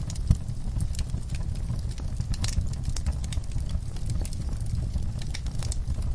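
Wood fire burning in a fireplace: irregular crackles and snaps of burning logs over a low, steady rumble of flame, with one louder pop near the start.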